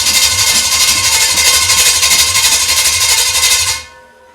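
A small scooter engine running loud and steady, then cutting out abruptly near the end.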